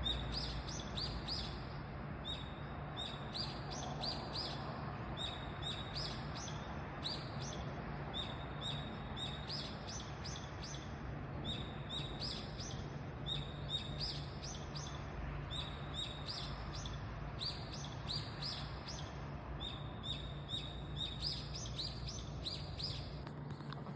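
A bird chirping over and over, short notes that sweep upward, in quick runs of two to four, over a steady low hum and faint background noise.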